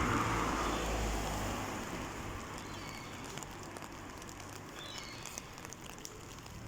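Heavy rain falling, with small drops clicking on an umbrella overhead. A gust of wind on the microphone at the start dies away over the first couple of seconds.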